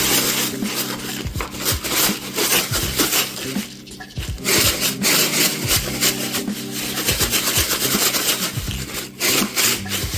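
Close, scratchy rubbing and rustling of plastic packaging and a plastic takeout container being handled, with irregular crackles and a short lull about four seconds in.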